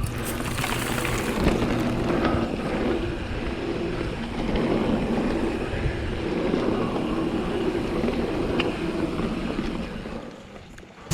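Mountain bike riding down a dirt trail: tyres rumbling over the ground, the bike rattling and wind buffeting the helmet camera's microphone. The noise dies down about ten seconds in.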